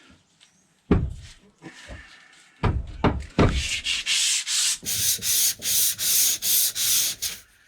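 A few sharp knocks, then worn, coarse 80-grit sandpaper rubbed back and forth by hand along a spotted gum maul handle in about ten even strokes, roughly three a second.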